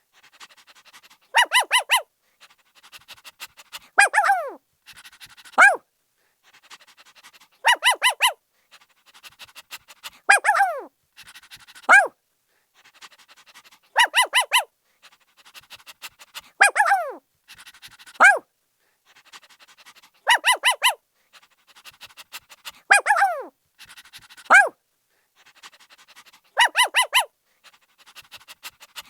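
A puppy yapping and barking: a quick run of sharp yaps, then a bark that falls in pitch and one short yap, with soft panting in the gaps. The same pattern comes back about every six seconds.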